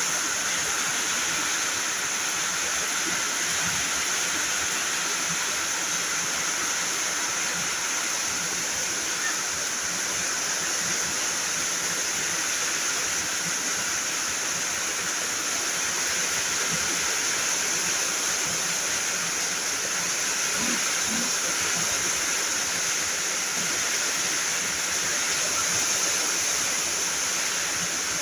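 Heavy rain falling, a steady unbroken hiss of water.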